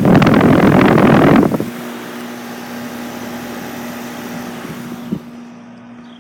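Outdoor unit of a 2010 Whirlpool heat pump running in heat mode. A loud rush of air noise fills about the first second and a half, then the steady hum of the compressor and fan goes on and grows quieter near the end.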